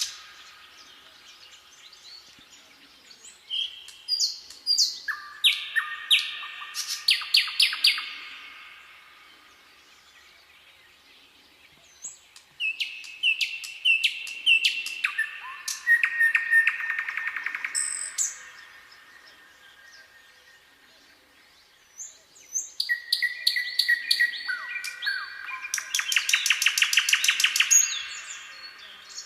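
Songbirds singing in three separate bouts of song, each a run of chirps stepping in pitch that ends in rapid trills, with quieter pauses between the bouts.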